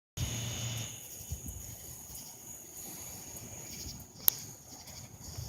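Night insect chorus of katydids and cicadas: a steady, high-pitched buzz. A low rumble sounds in the first second, and a single sharp click comes about four seconds in.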